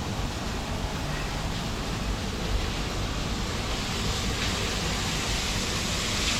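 A steady, even rushing hiss, with no speech.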